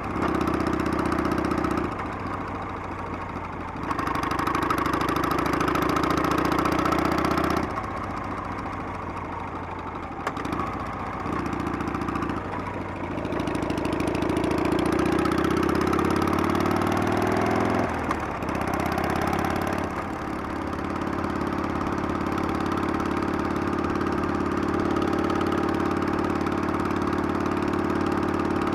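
Harley-Davidson Sportster's V-twin engine under way, its pitch climbing through each gear and dropping at several gear changes, then running steadily in the last third.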